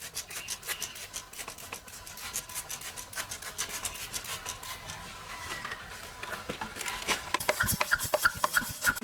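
Rapid scrubbing strokes rubbing against a car surface during cleaning. The strokes grow louder and faster in the last couple of seconds, with short squeaks.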